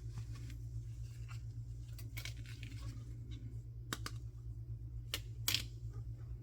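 Hands handling blind-box packaging and small toys: light rustling with a few sharp clicks and taps, the loudest about five and a half seconds in, over a steady low hum.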